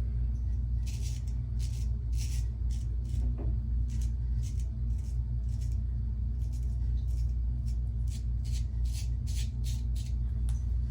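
Short scraping strokes of a Weck razor's blade cutting stubble, about twenty in quick, irregular succession, over a steady low hum.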